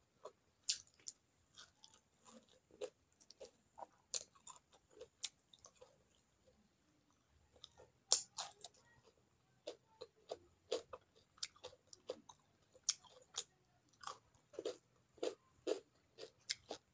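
A person chewing and biting food by mouth: irregular wet clicks and smacks of chewing, with a crisp crunch about eight seconds in as a raw cucumber slice is bitten.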